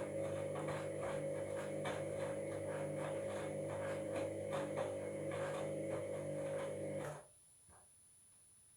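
Washing machine drum turning with a steady motor hum and a grinding sound full of small clicks, stopping abruptly about seven seconds in. The owner takes the grinding at the start of the wash for a sign of worn drum bearings.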